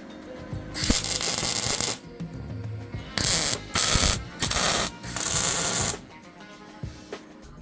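MIG welder laying short crackling, hissing weld bursts on a steel exhaust pipe: one longer run, then four short ones, over background music.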